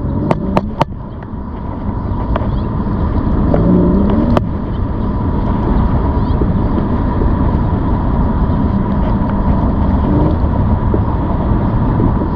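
Steady low rumble of wind and road noise while riding an e-bike, with a faint steady whine running through it and a few sharp clicks near the start.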